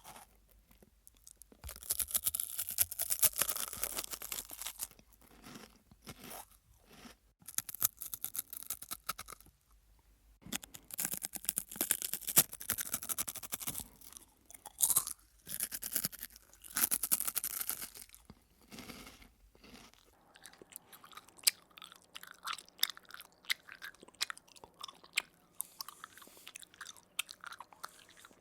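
Close-up chewing of crunchy food: several bursts of loud crunching a few seconds each, separated by short pauses. In the last third it turns to quieter, softer chewing with small scattered clicks.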